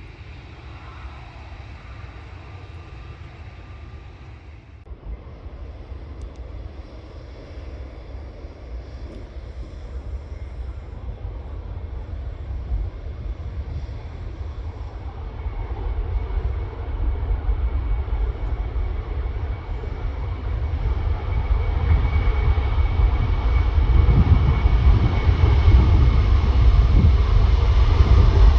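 Jet airliner engines at take-off power, the low roar growing steadily louder as the plane comes nearer, with a thin steady whine high above the roar in the later part. About five seconds in, a sudden break cuts from quieter, more distant jet noise to this take-off.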